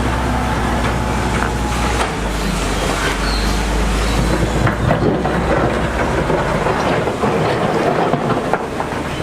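Heavy construction machinery working, with a low engine drone under a dense clatter and rattle, as of tracks or stone. The drone drops away about seven seconds in while the clatter goes on.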